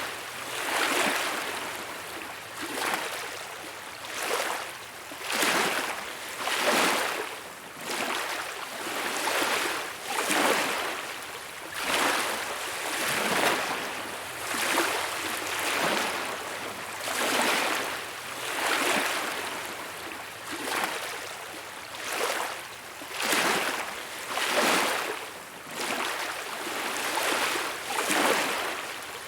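Small beach waves breaking and washing up the shore, a hissing surge that rises and falls roughly every second and a half.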